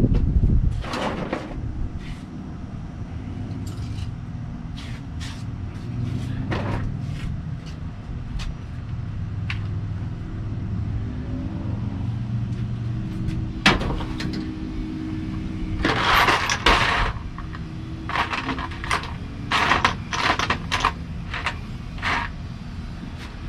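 Scattered metal clicks and knocks of hand tools working a screw and nut loose from a truck's overhead trim. A longer rough scraping noise comes about two-thirds of the way through, all over a steady low rumble.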